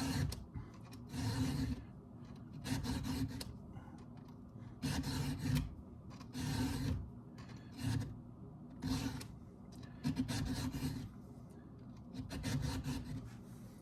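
Hand file stroking across the cutters of a chainsaw chain as it is sharpened: about nine rasping strokes, roughly one every second or so.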